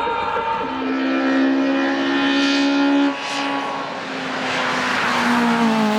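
Hillclimb race car engine running hard at high revs. The sound drops suddenly about three seconds in, builds again, and falls in pitch near the end.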